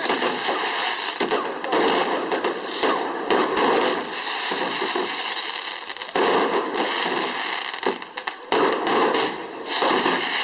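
Fireworks going off: a dense, continuous crackle of rapid pops, with a short high whistle now and then.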